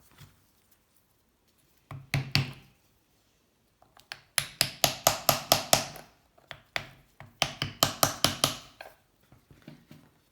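Quick knocks driving wooden wedges into the joint of a 1984 Honda C70's seized aluminium crankcase halves to split them: a couple of knocks, then two fast runs of taps at about six a second.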